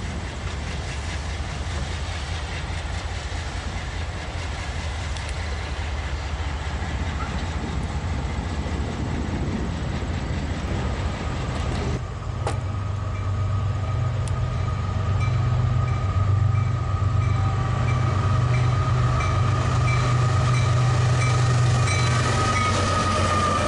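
A diesel locomotive engine runs with a low, steady rumble. After a cut about halfway through, a freight train led by several diesel locomotives comes past at close range, louder, with a deep engine throb, a steady whine and a regular clicking of wheels over the rails.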